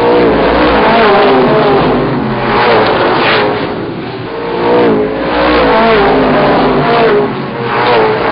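Racing car engines revving loudly, their pitch rising and falling again and again over a low rumble.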